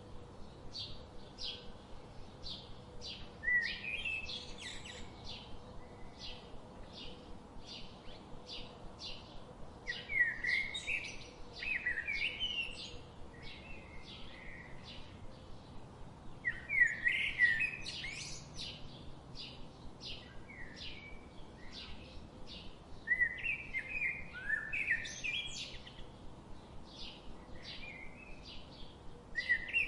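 Birdsong: one bird repeats a short high chirp about twice a second throughout, while louder warbling song phrases break in every five to seven seconds.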